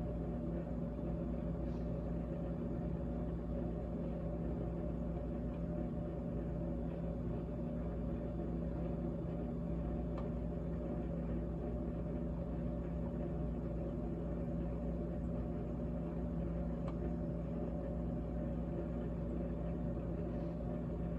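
GE GTH18XCTZRBB top-freezer refrigerator running with a steady hum.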